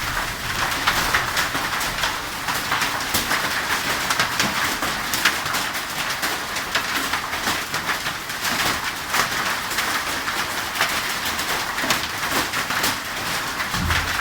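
Hailstones and rain falling and striking hard surfaces: a steady hiss dotted with many quick, irregular sharp clicks.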